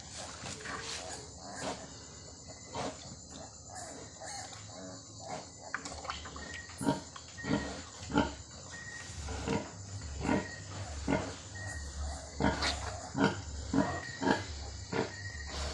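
Pigs grunting, short grunts coming roughly once a second and more often from about six seconds in.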